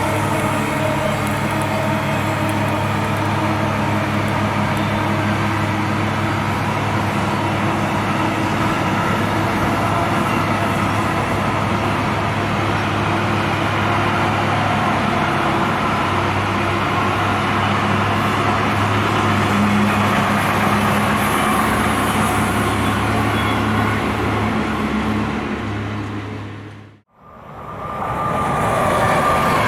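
A train passing close by on electrified main line: a steady rolling and rumbling noise with a low hum. About 27 seconds in it fades away, and another train's running noise fades in.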